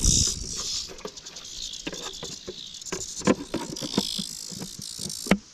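Cicadas droning in the background, with scattered close clicks and knocks of handling and movement near the microphone.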